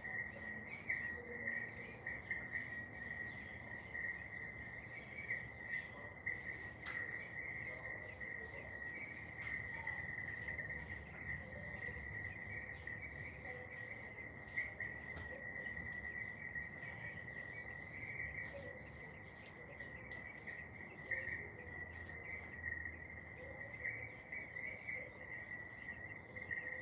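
Crickets trilling steadily on one high pitch, a continuous insect chorus, with scattered faint bird chirps over it.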